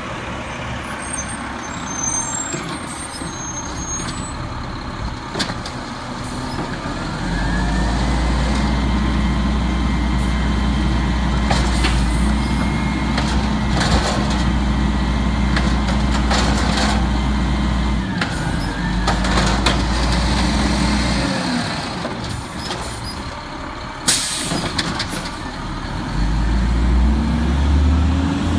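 Peterbilt 320 garbage truck's diesel engine revving up and holding high while it works the hydraulics of its Amrep Octo automated side-loader body, with a faint whine rising and falling over it. The engine drops back, rises briefly again, settles, and climbs once more near the end, with a short loud burst of noise about three-quarters of the way through.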